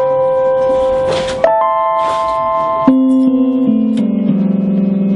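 Electronic keyboard playing sustained chords, changing about every second and a half, with bass notes stepping down one by one in the second half.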